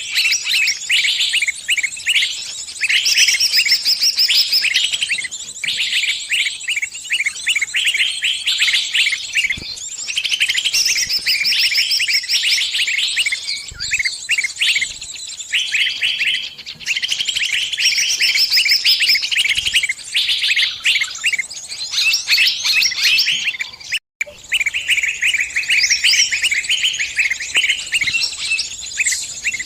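Small bird's distress calls: fast, dense chirping and chattering repeated almost without pause, the cries of a trapped bird calling other birds for help. There is one very short break about four-fifths of the way through.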